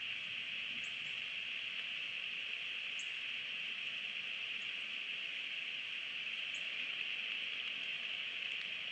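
Steady hiss of rain falling on the nest and surrounding trees, with a few faint, very short high chirps of a small bird.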